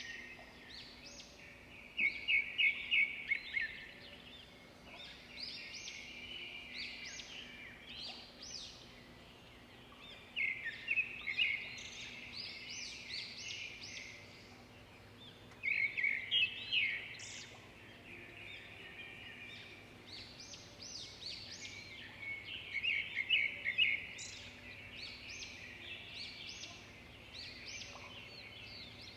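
Birds singing in a park: several loud phrases of rapid, repeated chirping notes about every six to eight seconds, with quieter song between them. A faint steady low hum runs beneath.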